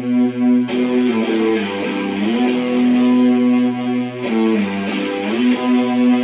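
Electric guitar played through a Sound JS HM-5 distortion pedal. It is a held, heavily distorted chord whose pitch bends down and comes back up twice.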